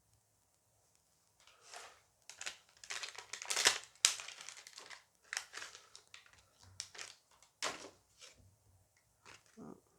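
A booster pack being crinkled and torn open, in a run of irregular rustles that is loudest a few seconds in, followed by scattered lighter rustles and clicks.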